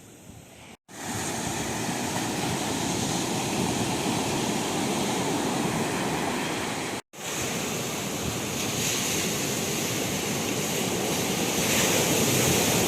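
Sea surf breaking on a beach with wind buffeting the microphone, swelling louder near the end. The sound drops out for an instant twice, about a second in and about seven seconds in.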